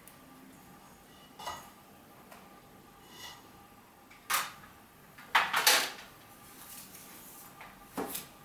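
Objects being handled: scattered light clicks and knocks, a couple with a short ringing tone, and a louder clatter a little past halfway.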